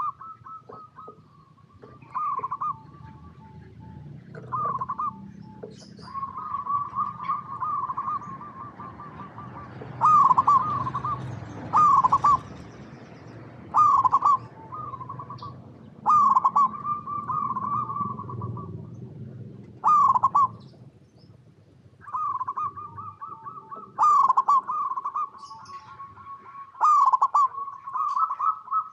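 Zebra dove (perkutut) cooing: a run of repeated phrases, each a rolling series of fast short coos lasting a second or two, about every two seconds. Faint, thin high chirps from small birds come in between them.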